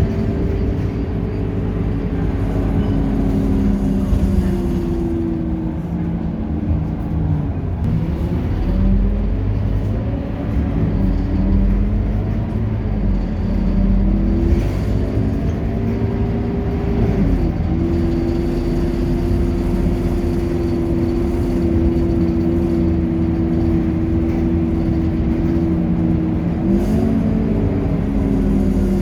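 Scania K230UB city bus's diesel engine running as the bus drives. The engine pitch falls as it slows about seven seconds in, climbs again, drops suddenly a little past halfway at a gear change, holds steady, then rises and falls once more near the end.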